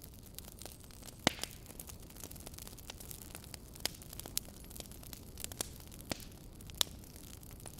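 Wood fire crackling in a fireplace: sharp, irregular pops and snaps, the loudest about a second in, over a steady low rumble.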